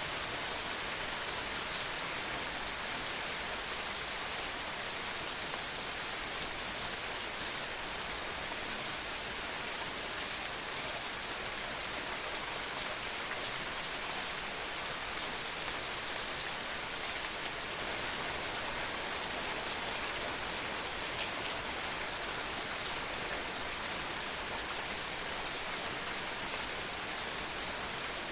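Steady rain falling, an even hiss of many drops that holds level without letting up.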